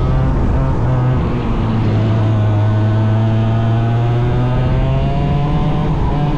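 100cc racing engine running hard under load. It eases off briefly about a second and a half in, then the revs climb steadily as it accelerates again.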